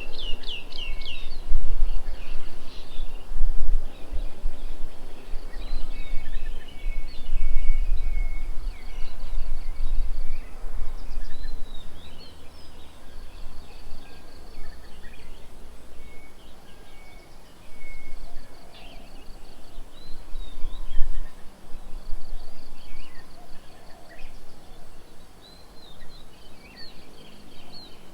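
Several birds calling: short repeated whistled notes and quick chirping sweeps, over a low rumble that swells and fades.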